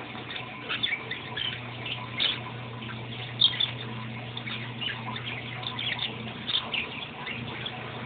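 Small caged pet birds chirping and chattering in many quick short calls, one sharper call about three and a half seconds in, over a steady low hum.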